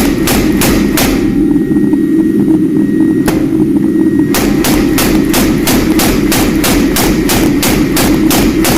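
Hammer blows on steel at the anvil, a quick steady run of about four strikes a second; they stop about a second in, one lone strike follows, and the rapid hammering resumes a little over four seconds in. A steady low drone runs underneath.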